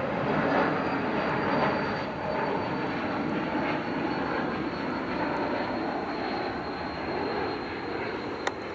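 Jet airliner's engines: a steady rushing roar, loudest in the first two seconds and slowly easing, with a thin high whine over it. A short sharp click near the end.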